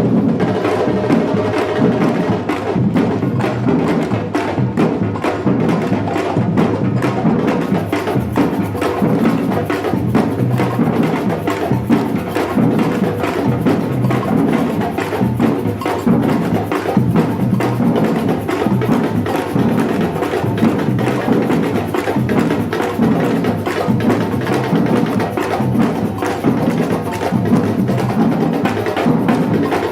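Batucada samba percussion group playing a steady, continuous rhythm on drums and hand percussion.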